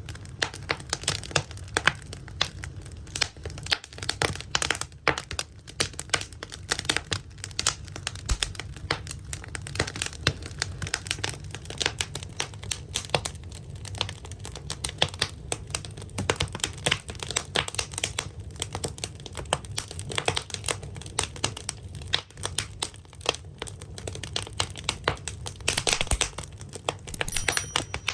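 Firewood burning in a traditional Korean ondol firebox, crackling with many irregular snaps and pops.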